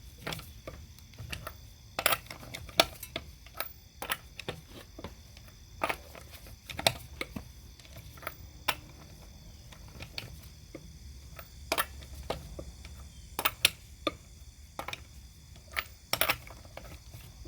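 Torque wrench clicking as the wheel's lug nuts are tightened to 100 ft-lb in a star pattern: a string of sharp, irregularly spaced clicks, some in quick pairs or clusters.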